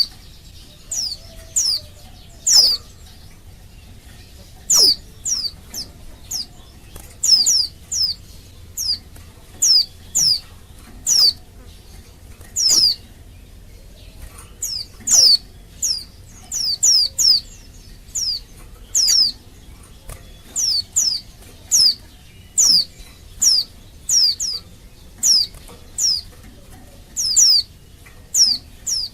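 Female white-eye (pleci) calling: short, high call notes that drop in pitch, given singly or in quick pairs every second or so with small pauses. This is the call of a female in breeding condition, used to lure male white-eyes into answering and singing.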